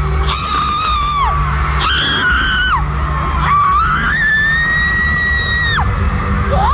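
A concert fan screaming close to the microphone in a string of high-pitched shrieks, the longest held for about two seconds, over loud live concert music with heavy bass.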